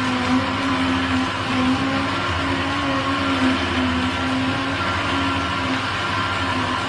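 Electric juicer motor running steadily, with a wavering hum over the noise of the spinning mechanism.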